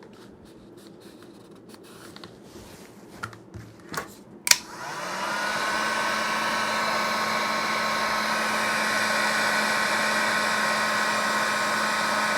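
A heat gun switched on with a sharp click about four and a half seconds in, its fan motor rising briefly in pitch as it spins up and then blowing steadily while it softens the Kydex holster for shaping. Before it, a few light handling clicks.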